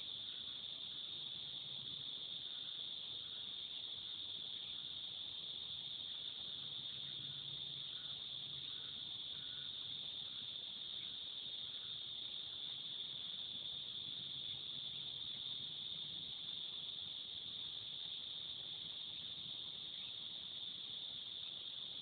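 A chorus of cicadas buzzing in one steady, unbroken high-pitched drone.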